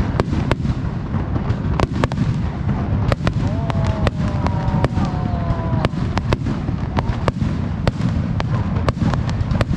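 Fireworks display: aerial shells bursting in quick succession, a continuous low rumble of booms with many sharp cracks throughout.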